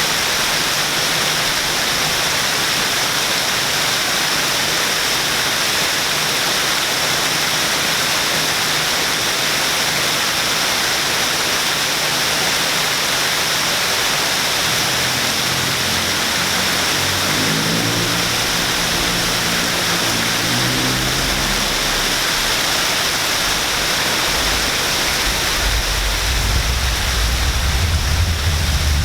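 Waterfall pouring steadily. An engine passes about halfway through, and a deeper rumble builds near the end.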